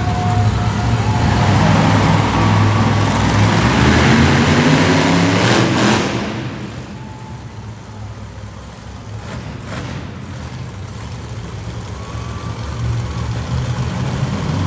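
Monster truck engine revving, its pitch climbing for several seconds, then backing off sharply about six seconds in to a lower rumble.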